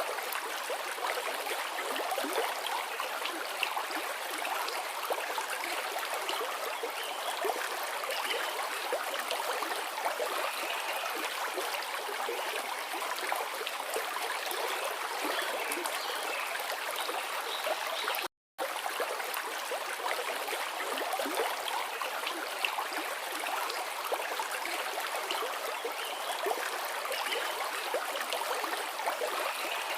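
River water flowing in a steady rush, broken once by a split-second gap of silence about two thirds of the way through.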